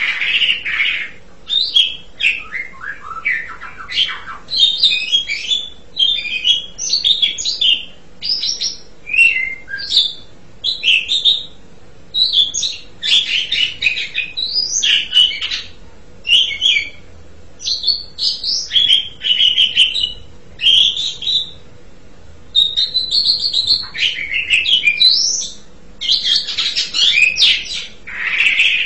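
Asian pied starling (jalak suren) singing a long, varied song of quick chattering and whistled phrases in runs with short pauses between them, some phrases sliding down in pitch.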